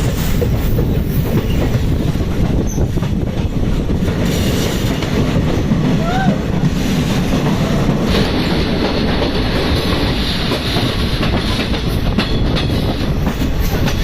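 Passenger train coach running on the rails: a steady loud rumble with wheels clicking over the rail joints. A short high squeal comes about six seconds in, and more hiss joins from about eight seconds in.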